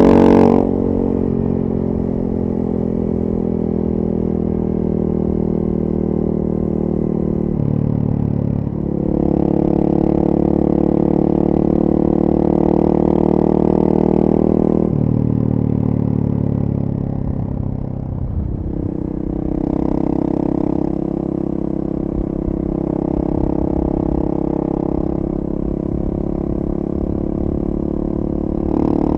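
Single-cylinder four-stroke engine of a KTM 450 EXC supermoto with a full FMF 4.1 exhaust, heard from the rider's position under way. A loud pull drops off just after the start, then the bike runs at part throttle, its pitch stepping up and down several times with throttle and gear changes.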